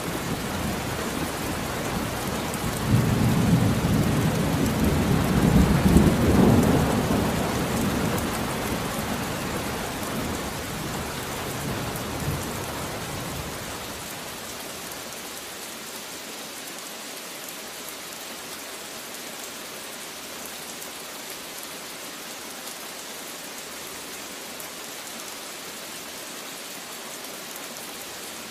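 Steady heavy rain with a long roll of thunder: the rumble swells about three seconds in, peaks a few seconds later and fades out by about the halfway point, leaving only the even hiss of rain.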